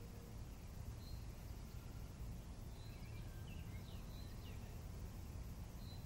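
Faint birdsong from several small birds: a few short high chirps and quick sweeps about a second in, a cluster in the middle, and another near the end, over a steady low rumble of wind.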